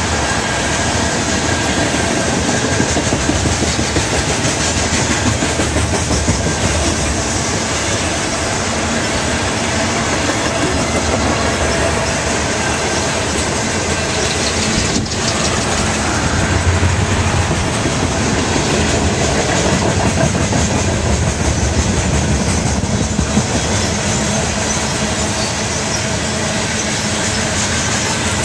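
Freight train cars rolling steadily past, their wheels clattering over the rail joints in a continuous rumble.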